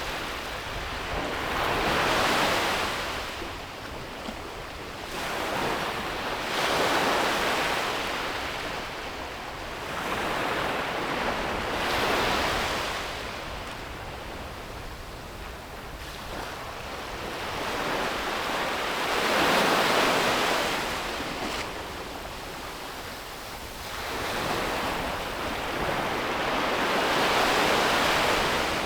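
Ocean waves breaking and washing up a beach, swelling and fading in five surges several seconds apart.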